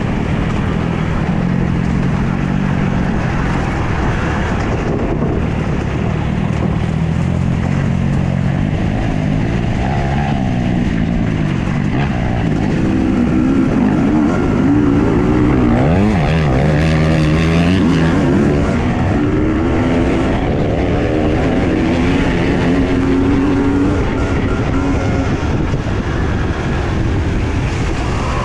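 Husqvarna TE 250i two-stroke enduro motorcycle engine running under way, its revs rising and falling with gear and throttle changes, with a quick rev up and down about sixteen seconds in.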